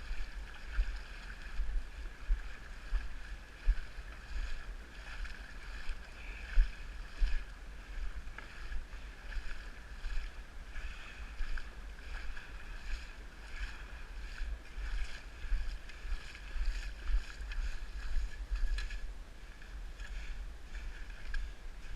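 Wind buffeting the microphone in uneven gusts, over a steady higher hiss.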